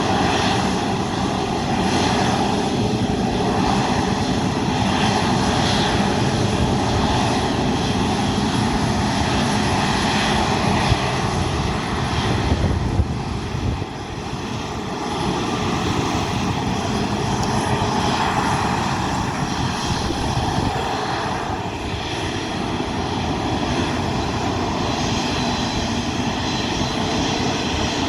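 Boeing 737-300F's CFM56-3 turbofan jet engines running loudly and steadily, a rushing roar with a thin whine on top.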